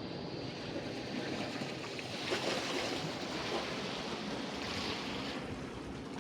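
Sea surf washing on a beach, with a wave rushing in a little over two seconds in and fading about five seconds in. Wind rumbles on the microphone underneath.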